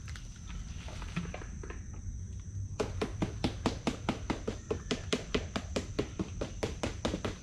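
A fast, even series of sharp knocks, about five a second, starting nearly three seconds in, over a steady high-pitched drone and light rustling.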